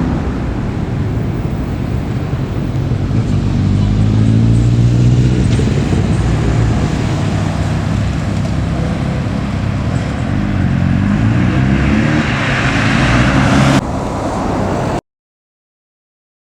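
Honda CB1300 police motorcycle's inline-four engine accelerating and easing off in turn, its pitch climbing and falling several times over road and wind noise. The sound changes abruptly near the end and then cuts off.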